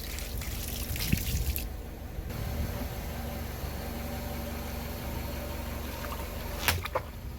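Water running and splashing, hissing more brightly for the first second and a half and then steady, over a low rumble, with a few sharp clicks near the end.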